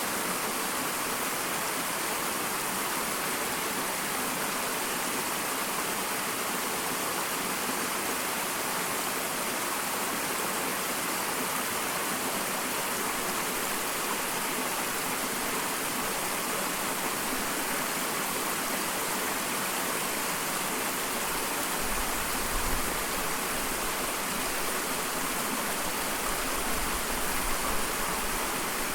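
Small waterfall: a steady, even rush of falling and splashing water. Brief low rumbles come in twice near the end.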